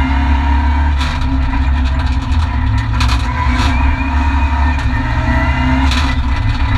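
Renault Mégane Group N4 rally car's turbocharged four-cylinder engine running hard at stage speed, heard from inside the stripped cabin along with road and tyre noise. The engine note steps up and down a few times as the driver changes gear.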